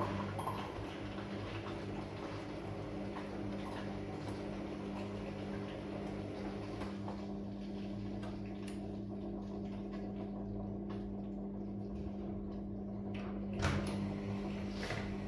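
Washing machine running steadily: a constant motor hum with a churning, swishing noise over it, and a single knock near the end.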